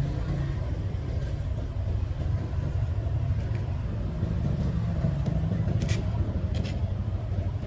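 Small two-stroke cultivator engine running steadily at a constant speed, with a couple of light clicks near the end.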